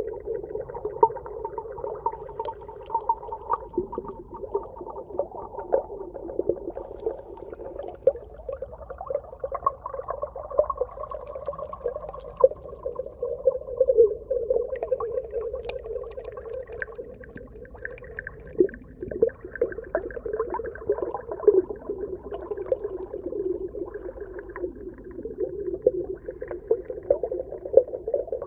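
Underwater ambience: a murky, wavering hum with frequent short crackling clicks throughout.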